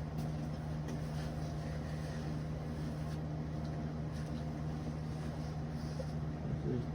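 A steady low mechanical hum that holds one pitch.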